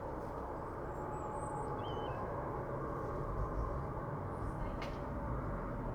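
Steady rushing background noise, with a brief faint chirp about two seconds in.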